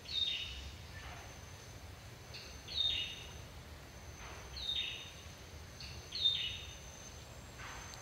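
A bird calling four times, about every two seconds, each a short high call that drops in pitch, with fainter, lower falling notes in between. A faint steady high tone and a low rumble lie underneath.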